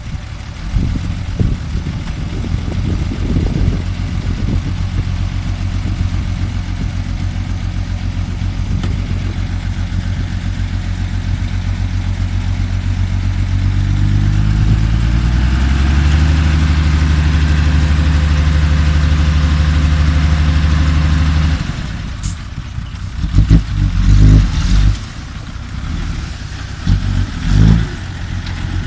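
Six-wheel dump truck's engine running, revved up about halfway through and held high for several seconds before it drops back suddenly. Irregular knocks and thumps follow near the end.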